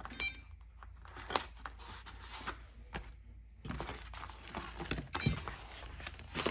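Hands working on a foam model airplane and its decal sheet: scattered light taps, clicks and rustling, with a brief squeak near the start.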